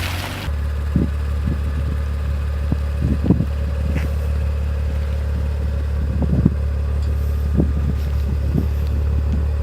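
Audi RS4 Avant's 2.9 TFSI twin-turbo V6 idling steadily: an even low drone, with a few faint short ticks over it. It starts abruptly about half a second in.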